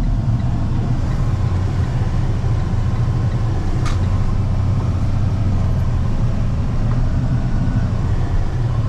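Engine and road noise inside a moving vehicle's cab, a steady low rumble, with one sharp click about four seconds in.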